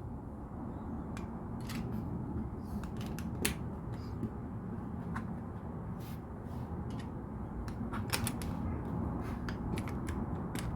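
Plastic LEGO pieces clicking and snapping together as they are handled and pressed into place: a dozen or so sharp clicks at uneven spacing, over a steady low rumble.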